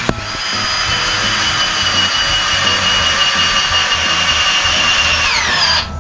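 Power drill running at a steady high whine, then winding down in pitch and stopping near the end.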